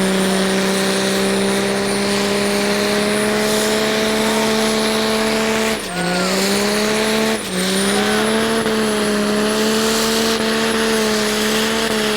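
A diesel truck engine held at high revs in a burnout, a steady, loud drone with a thin high whistle above it. About six and seven and a half seconds in, the revs dip sharply and climb back.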